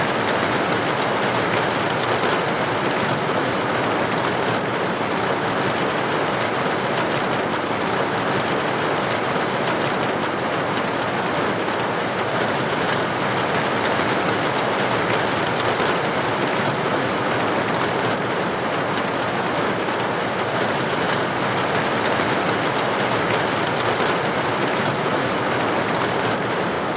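Steady, dense rain pattering on a window pane, an even hiss with no pauses.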